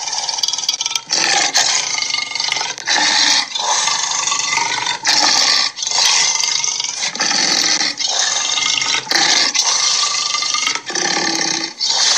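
Monster-style creature sound effects: a run of about a dozen growling roars, each around a second long, with short breaks between them.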